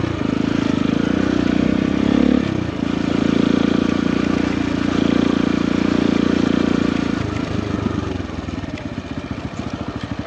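Motorcycle engine running under load at steady revs, dipping briefly about two and a half seconds in, then falling away near the end to a slow, even putter.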